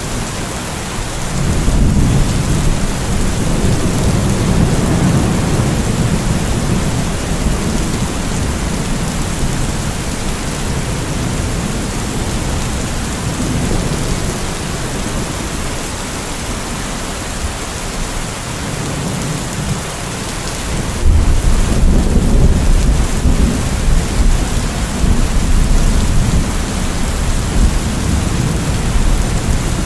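Thunderstorm: steady heavy rain hissing throughout, with rolling thunder rumbling low in long swells, the loudest starting suddenly about twenty-one seconds in.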